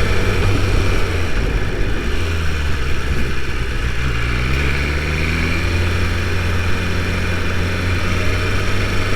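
BMW S1000RR inline-four engine running at low revs, heard through a helmet-mounted camera. Its note shifts about a second in and rises gently a few seconds later.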